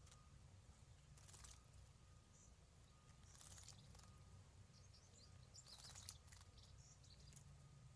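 Near silence: faint outdoor background with a low hum, a few soft hiss bursts and a few faint, short, high chirps in the second half.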